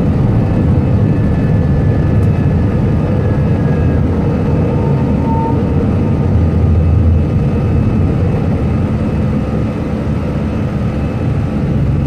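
Airliner cockpit noise: a steady, loud rumble of engines and rushing air with faint steady whining tones above it, easing slightly about seven seconds in.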